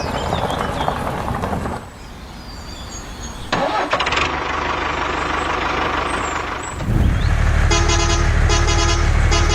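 A vehicle engine running, with the sound changing abruptly a few times as if cut between takes; near the end a strong low engine drone comes in and a horn toots in a quick series of short blasts.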